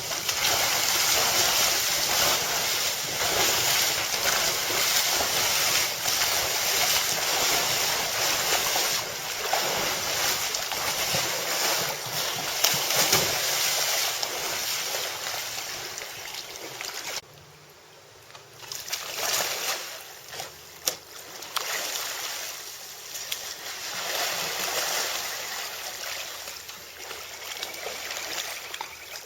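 Rushing, splashing water and wind buffeting the microphone on a small boat under way. The noise drops away for about a second and a half a little past halfway, then returns with a few sharp splashes.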